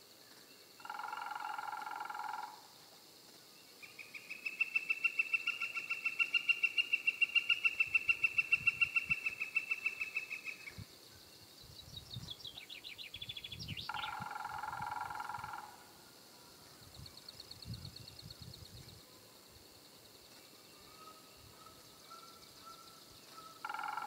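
Bird calls: a long, fast series of repeated call notes lasting about seven seconds, typical of a northern flicker's rapid 'kek-kek-kek' call, then a short falling trill from another small bird. Three times a steady held note of about a second and a half sounds, near the start, about halfway and at the end.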